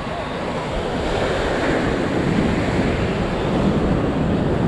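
Ocean surf washing onto a sandy beach, a steady rushing that swells over the first second or so, with wind buffeting the microphone.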